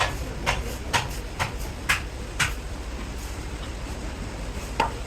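A run of sharp knocks, about two a second, over a steady low hum, stopping after a couple of seconds, with one more knock near the end.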